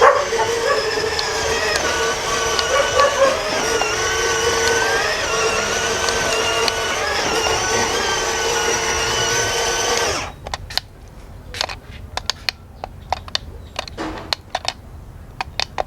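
A small motor runs steadily with a whirring whine for about ten seconds, then stops abruptly. Scattered sharp clicks and taps follow.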